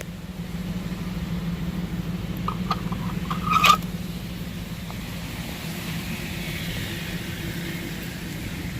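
Steady low hum of the Nissan Armada's 5.6-litre V8 idling, with a brief sharp click about three and a half seconds in.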